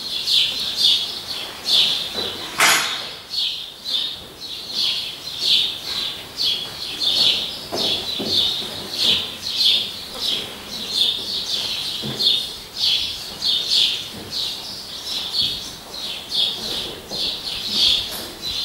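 A bird chirping over and over, about two short high calls a second without a break, with one sharp click about two and a half seconds in.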